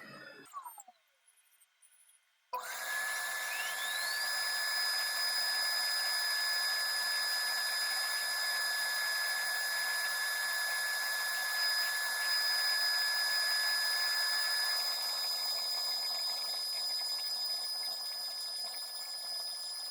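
High-speed spindle of an LPKF ProtoMat S63 circuit-board plotter. About half a second in, a falling whine dies away, and after a short near-silence the spindle starts up again with a rising whine that settles into a steady high-pitched whine.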